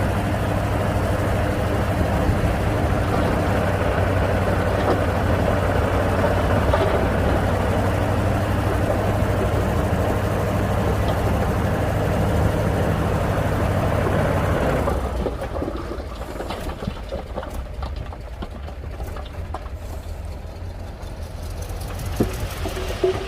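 Heavy diesel engine of earthmoving machinery running steadily and loud. About fifteen seconds in it drops noticeably quieter, with scattered ticks and a couple of sharp clanks near the end.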